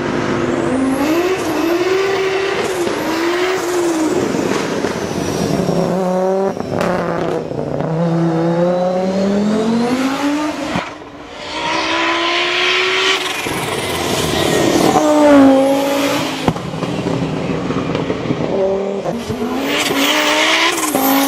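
Turbocharged car engine revving and accelerating hard, its pitch repeatedly rising and falling through the gears, with hissing rushes of air as the blow-off valve vents boost when the throttle closes.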